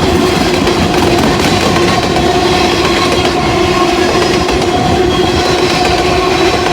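Norfolk Southern mixed manifest freight train rolling past, a steady loud rumble of railcars on the track with a constant whining tone over it.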